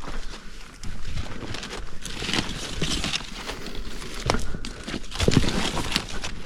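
Footsteps of a person walking along a trail: uneven steps with scuffing and rustle.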